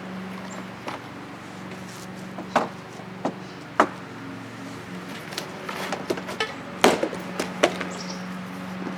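E-bike kit parts being handled and taken out of their packing: a scattered string of short clicks, taps and knocks, a few louder ones in the middle and about two thirds of the way through, over a steady low hum.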